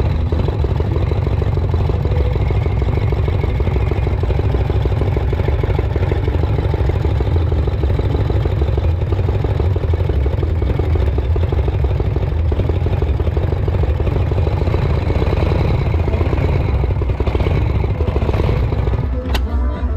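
Motorcycle engine running with a steady low rumble. A sharp click comes about a second before the end.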